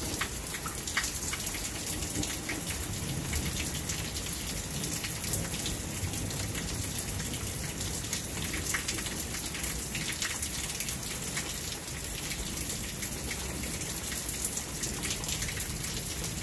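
Steady heavy rain falling, with many sharp individual drop taps on nearby surfaces.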